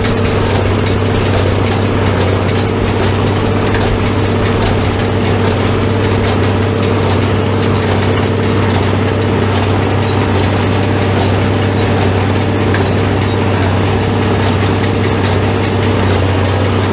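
Farm tractor engine running steadily at a constant speed, a low, even hum that does not change.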